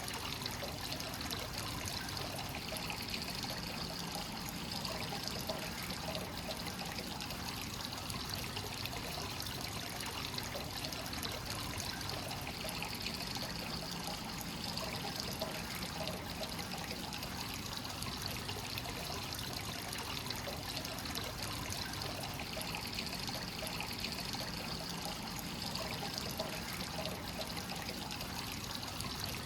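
Hot spring water pouring steadily into a bath, a continuous trickling and splashing that swells gently every few seconds.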